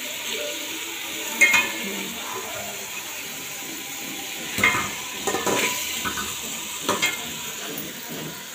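Mutton liver frying in oil in a metal pot, sizzling steadily, while a slotted spatula stirs and scrapes through it, with a few sharp knocks of the spatula against the pot.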